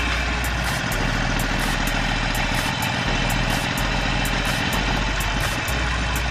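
Harley-Davidson Sportster Forty-Eight's 1200 cc V-twin engine running steadily, with no revving.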